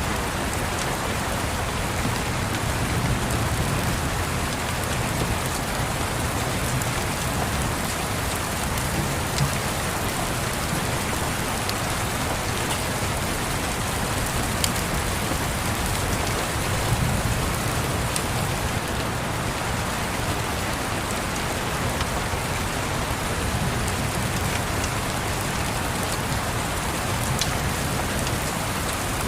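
Steady rain, with a few sharp crackles from a log fire and a low rumble of distant thunder that swells now and then.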